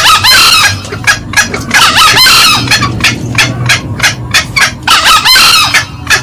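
Green junglefowl lure calls: a rapid run of short cackling clucks, broken by three louder crowing calls about two to three seconds apart.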